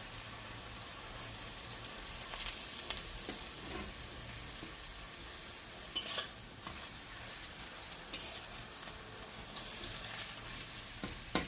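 Water spinach (kalam saag) pakodas in gram-flour batter deep-frying in hot oil, a steady sizzle with a few short utensil clicks.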